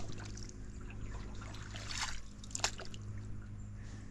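Canoe paddle strokes in the water: quiet splashes and water trickling off the blade. One stroke comes right at the start and two more about two seconds in.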